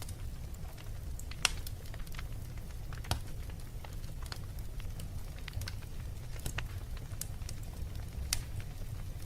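Wood fire in a fireplace crackling, with sharp irregular pops over a low steady rumble. The loudest pop comes about a second and a half in.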